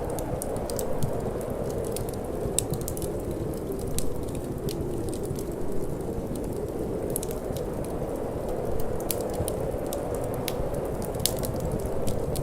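Wood fire crackling, with irregular sharp pops several times a second, over a steady low rush of wind.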